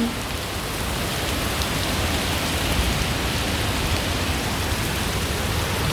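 Heavy torrential rain pouring down in a steady, dense hiss, with wind-driven sideways rain.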